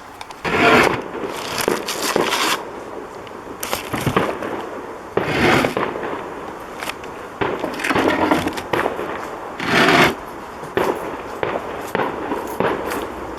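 A 75-shot consumer firework cake (CT Pyro Whole Shabang) firing its shots one after another, a loud blast every one to two seconds.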